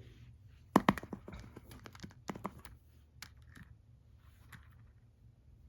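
Small plastic toy figures being handled and moved on a surface: scattered sharp clicks and taps, the loudest a little under a second in, then quieter taps and light rustling.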